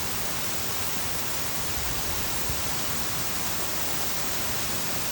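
Steady downpour of rain, an even hiss with no breaks.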